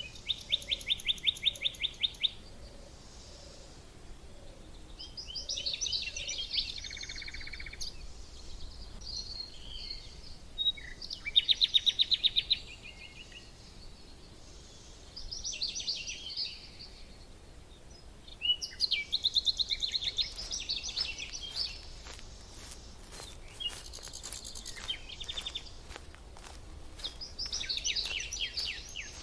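Songbirds singing in short bursts every few seconds, some phrases fast rattling trills, others warbled notes. A run of short clicks or taps comes in about two-thirds of the way through.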